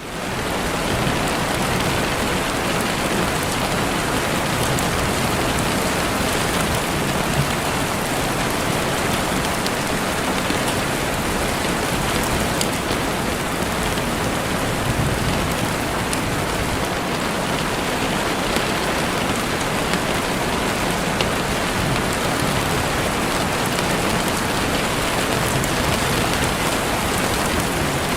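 Steady rain falling, fading in over the first second, with scattered faint sharp crackles from a campfire.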